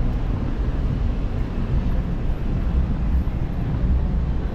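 Steady low rumble of busy city road traffic.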